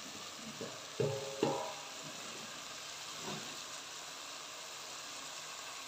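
Hot oil and tomato masala sizzling steadily in a metal pot as shredded cabbage is added, with two short knocks about a second in.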